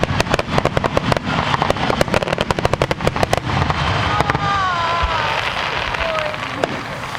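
Fireworks crackling in a dense, rapid string of sharp pops for about three and a half seconds, then thinning into a steadier crackling hiss.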